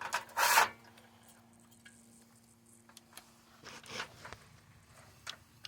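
Pit bike roller chain being handled and fed around the sprockets: short rustling, clinking handling noises, a loud one about half a second in and softer ones around four and five seconds in, over a faint steady hum.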